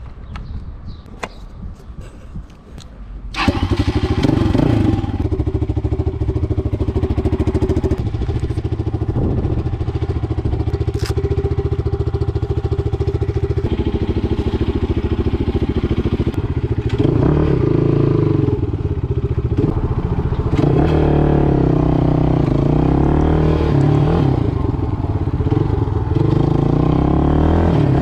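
A few light clicks, then a Motoland Legend motorcycle engine comes in abruptly about three seconds in and runs steadily; in the second half its note rises and falls repeatedly as the throttle is worked while riding.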